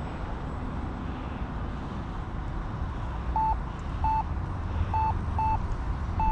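Short electronic alert beeps from the RC radio transmitter, five or six of them starting a little past halfway, unevenly spaced, over a steady low rumble.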